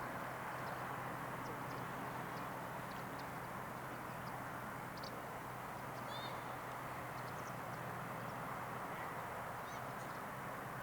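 Faint, scattered high chirps of small birds over a steady outdoor background noise with a low hum, with a short run of chirps about six seconds in.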